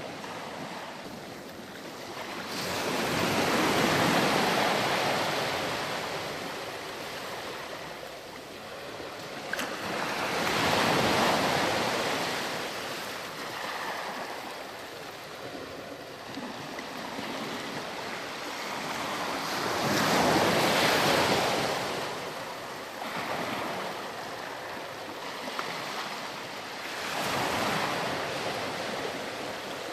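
Ocean waves breaking on a sandy beach and washing back. Four slow surges, each building and fading over a few seconds, come about seven to nine seconds apart over a steady wash of surf.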